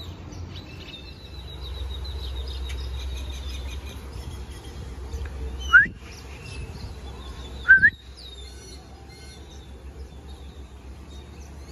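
Birds chirping, with two loud, short rising calls about six and eight seconds in over a low steady rumble.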